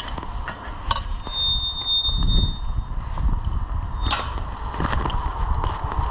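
A steady high-pitched beep lasting about a second and a half, with a few sharp clicks and knocks before and after it, over a low rumble.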